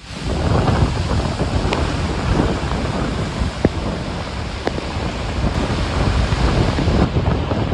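Rough sea waves breaking in a gale, with strong wind buffeting the microphone and a few faint ticks.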